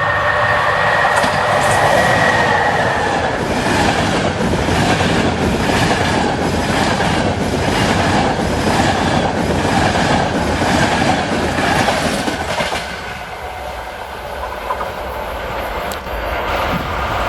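A train passing close by, its wheels clacking over rail joints about twice a second, with a steady high-pitched tone over the first few seconds; the sound eases off about three-quarters of the way through.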